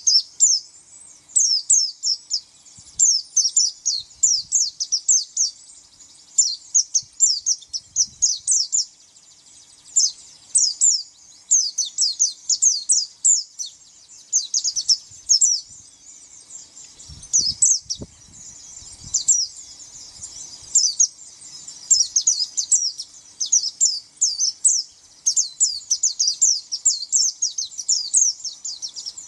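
Pleci (white-eye, Zosterops) singing: quick phrases of rapid, high, downward-slurred chirps, repeated with short pauses between them.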